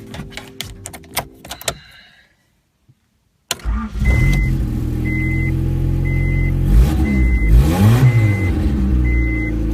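Background music, a brief silence, then about three and a half seconds in the Honda Civic's D16 four-cylinder engine starts up and runs. It revs up and drops back once about halfway through, with a short electronic beep repeating about every three-quarters of a second. It now runs after its loose distributor rotor was secured with a new screw.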